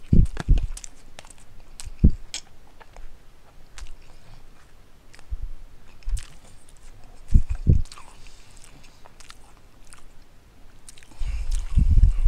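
A person chewing a mouthful of ramen noodles close to the microphone, with wet clicky mouth sounds and scattered dull low thumps that bunch together near the end.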